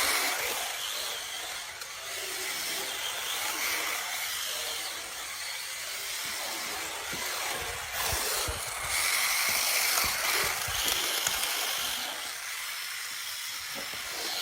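1/32-scale RC drift car running, its small electric motor whirring and its hard tyres scuffing across the floor as it drifts. The sound swells and eases with the throttle, loudest about two thirds of the way through.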